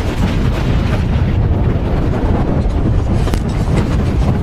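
A loud, steady low rumble, with wind buffeting the microphone.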